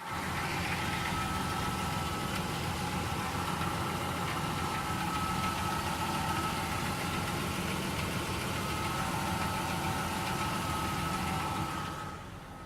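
2000 Ford Ranger's 4.0-litre V6 idling steadily with a knocking noise that shows up only at idle, whose source the owner cannot trace. The sound drops in level near the end.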